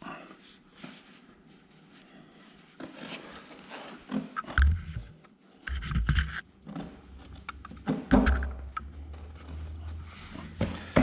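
Metal engine parts being handled and fitted by hand: irregular knocks, clinks and scrapes, with a few low rumbling thumps in the second half.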